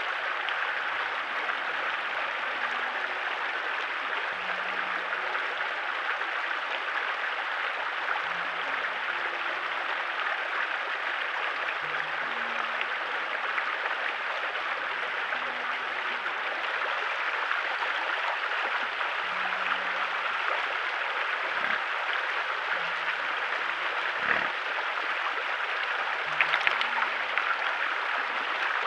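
Steady rush of flowing river water, with two faint knocks about two-thirds of the way through.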